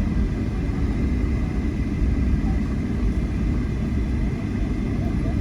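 Airliner cabin noise: the steady low rumble of the jet engines and airflow heard from inside the passenger cabin, with a thin steady whine above it.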